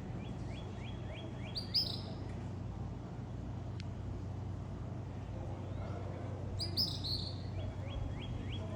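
Small songbird singing twice: each phrase is a quick run of repeated high notes together with a brief louder, higher note group. A steady low hum runs underneath.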